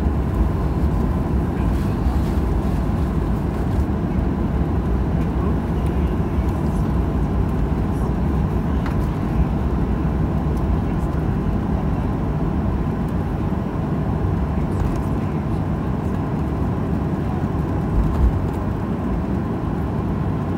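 Steady rumble of a Boeing 737-800's CFM56 engines and airframe, heard inside the passenger cabin, with a faint steady whine above it.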